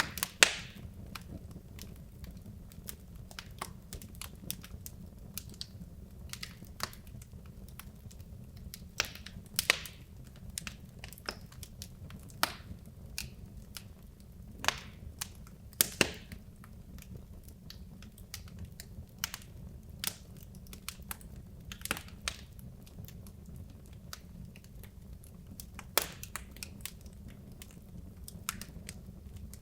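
Wood logs burning in a fireplace, crackling and popping at irregular intervals over a steady low rumble of the flames, with the loudest pops about half a second in and again around ten, sixteen and twenty-six seconds in.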